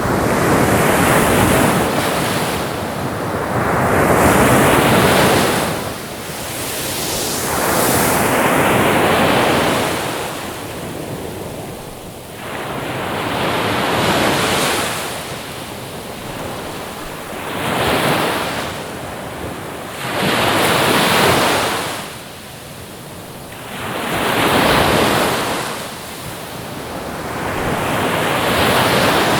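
Ocean waves breaking and washing on a shore, a rushing noise that swells and falls with each wave every few seconds.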